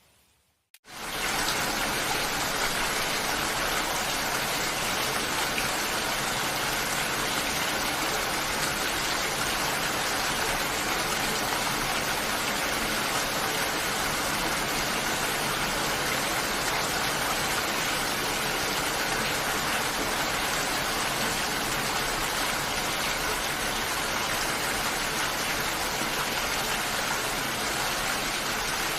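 Steady heavy rain, an even hiss with no single drops standing out, starting suddenly about a second in after a moment of silence.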